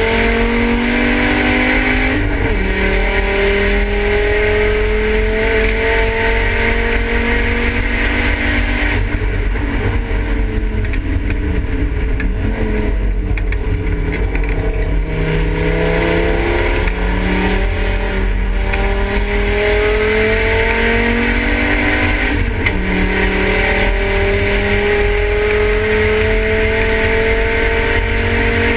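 Volvo 850 race car's five-cylinder engine heard from inside its stripped cabin, driven hard on track. The engine note climbs and drops sharply at each upshift, with a stretch mid-way where the revs fall for several seconds before climbing again. A constant low rumble of road noise runs underneath.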